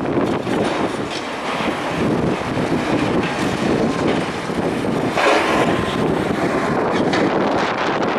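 Strong gusting wind blowing across the microphone, a loud, constant rushing noise that rises and falls.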